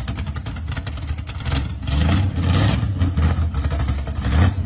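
Engine of a 1955 Chevrolet gasser running at low speed as the car rolls slowly along. It gets louder about two seconds in.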